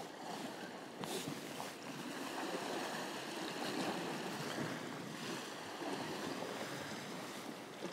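Steady wash of sea waves along a rocky shore, mixed with wind on the microphone, with a couple of faint ticks about a second in.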